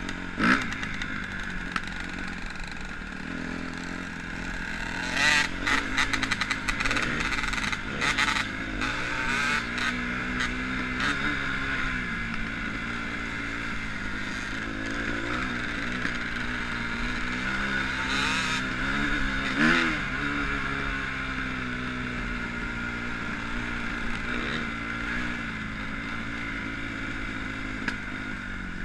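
Motocross dirt bike engine running on the track, its pitch rising and falling with the throttle. There is a cluster of sharp knocks and rattles about five to eleven seconds in, and a quick rev about two-thirds of the way through.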